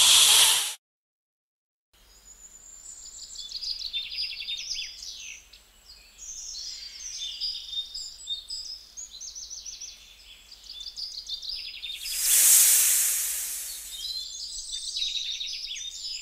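Birds chirping and singing in many quick, high trills. A short snake hiss opens, and a louder hiss swells and fades about twelve seconds in.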